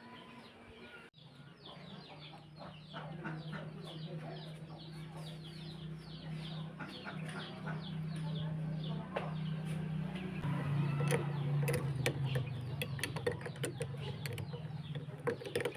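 Birds chirping in quick, short falling notes, several a second, over a steady low hum. From about the middle on, sharp clicks and knocks join in and grow more frequent.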